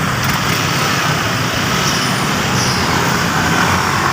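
Steady noise of heavy road traffic, with vehicle engines running.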